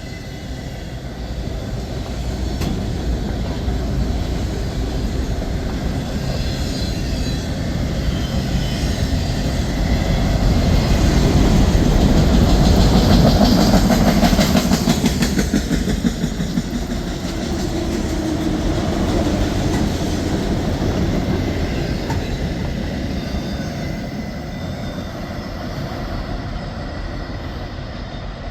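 Freight train of empty autorack cars rolling past, steel wheels running on the rails, swelling to its loudest midway and easing off toward the end.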